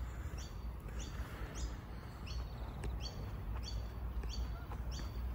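A bird calling over and over, a short chirp that falls in pitch about every two-thirds of a second, over a low steady rumble.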